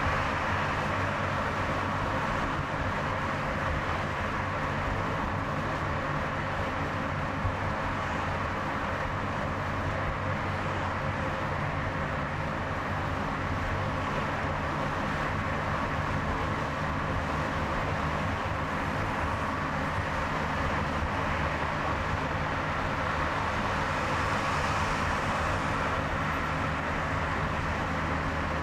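Steady road noise of a car driving on a highway: tyre rumble with a low, even engine hum, and a faint tick about seven seconds in.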